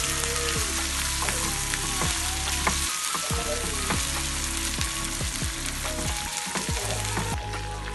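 Chopped onions sizzling in hot oil in a pan, with short clicks and scrapes of a spoon stirring them, as ginger-garlic paste goes in.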